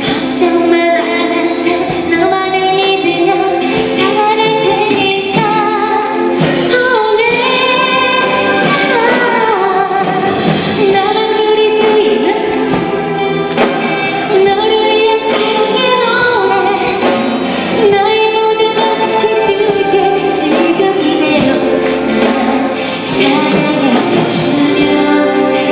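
A woman singing a ballad live, accompanied by a youth symphony orchestra.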